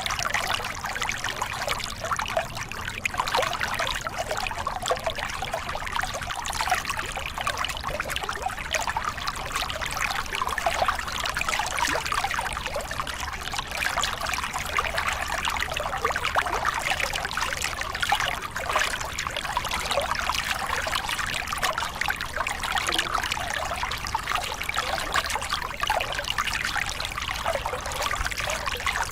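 Small river cascade: water spilling over rocks and splashing in a steady, unbroken rush.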